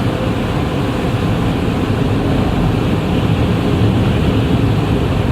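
Automatic car wash machinery running steadily, heard from inside the car: a loud, even rushing noise with no breaks.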